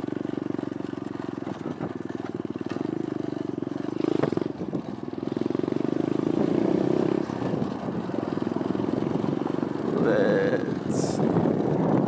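Pit bike's petrol engine running while riding, a steady buzzing drone that swells and eases as the throttle is worked, louder around the middle and near the end.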